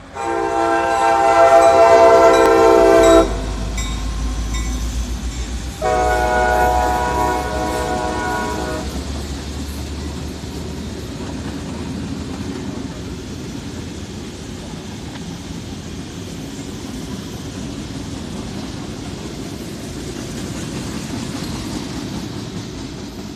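Horn of an EMD SD60I diesel locomotive sounding two long blasts, the second starting about three seconds after the first ends. Under the horn is the low rumble of the diesel engines as the light engine consist passes. This gives way to a steady rolling noise of wheels on rail that slowly fades.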